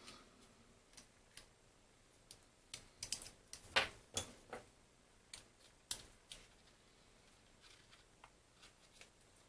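Irregular small clicks and taps of plastic telephone parts being handled and fitted together, busiest about three to four seconds in.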